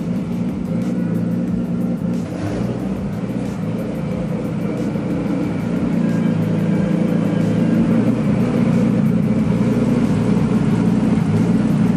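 Nissan Skyline R32's RB26 twin-turbo straight-six running at low revs as the car rolls slowly closer, growing steadily louder as it approaches.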